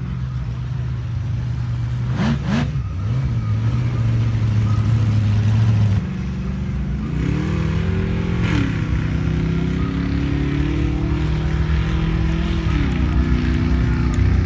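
Engine running steadily, then revving up and back down several times. The sound changes abruptly about halfway through.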